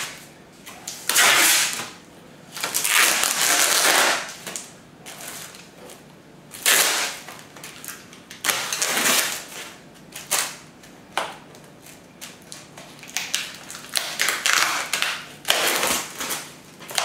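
Beehive packaging being handled and unwrapped: irregular bursts of crinkling and rustling, some a second or two long, with short pauses between.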